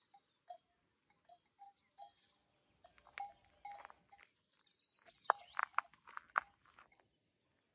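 Birds singing: short series of high, falling whistled notes and a lower short note repeated at intervals, with several sharp clicks between about five and six and a half seconds in.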